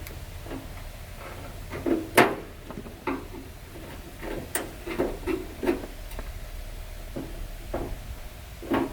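Scattered knocks and clanks of tools and metal parts being handled during work on a tractor engine, with one sharp loud clank about two seconds in.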